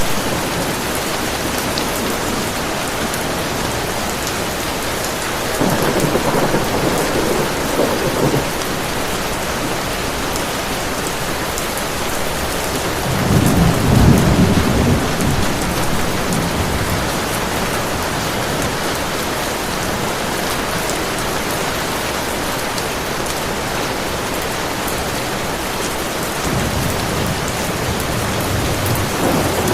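Heavy rain falling steadily, with thunder rumbling three times: about five seconds in, a louder, deeper roll about halfway through, and another starting near the end.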